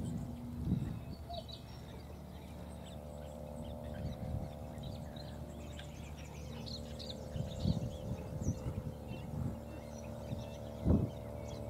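Outdoor ambience with scattered faint high bird chirps over a steady low hum, and a few soft low thumps, the loudest a little before the end.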